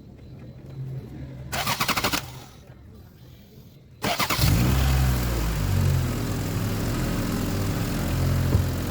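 Honda Civic Genio's four-cylinder engine: a brief rapid starter cranking that does not catch, then about four seconds in it cranks and starts, settling into a steady idle. It is being run to check the exhaust joint for leaks.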